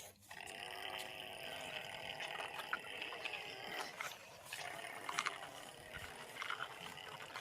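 Mini toy tractor's small motor running with a steady whir that weakens after about four seconds, with a few light clicks.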